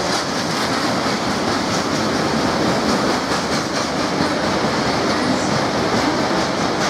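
Freight wagons loaded with steel rolling past close by at speed, the wheels clicking over the rail joints in a steady, continuous rumble.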